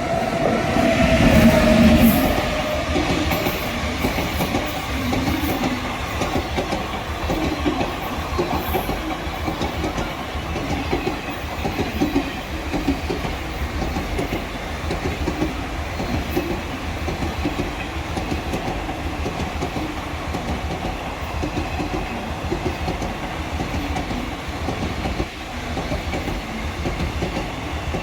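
Train passing close by: the locomotive goes past in the first couple of seconds with a falling whine, then a long rake of ICF-bogie coaches clatters steadily over the rail joints. This is the clickety-clack typical of ICF stock, here parcel vans behind a WAG-9HC electric locomotive.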